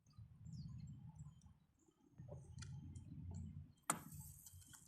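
Faint, scattered bird chirps over a low rumble, with one sharp click about four seconds in.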